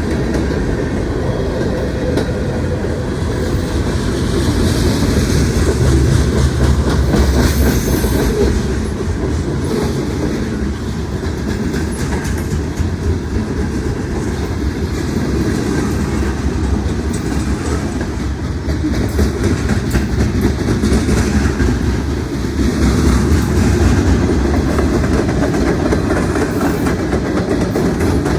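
Cars of a mixed freight train rolling past, a steady rumble of steel wheels on the rails.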